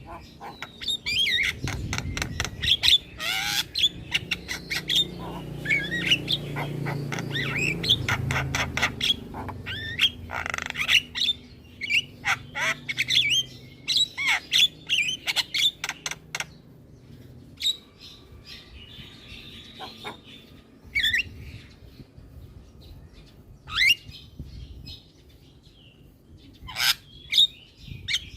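Javan myna calling non-stop: a busy string of harsh squawks, clicking rattles and short whistles. The calls are dense for the first half and thin out to scattered calls after that.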